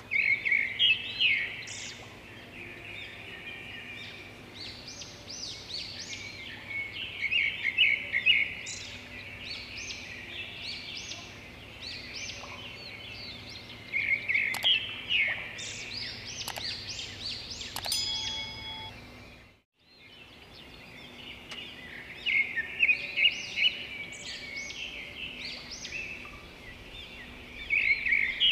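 Small birds chirping and twittering in quick, busy bursts, over a faint steady low hum. All sound drops out for a moment about two-thirds of the way through.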